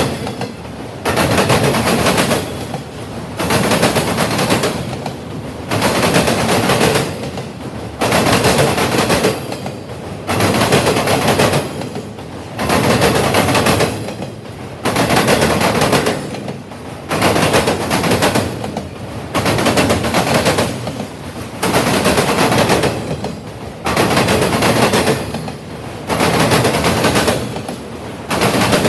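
A freight train rolling past, its wheels clattering in a loud burst about every two seconds as each car's trucks go over the rails.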